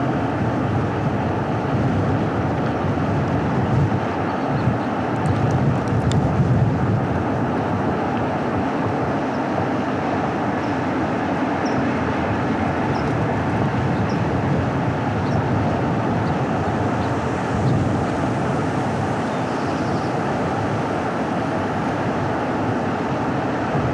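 Car driving along a winding road: steady road and tyre noise with a low engine hum, and a few faint clicks about five seconds in.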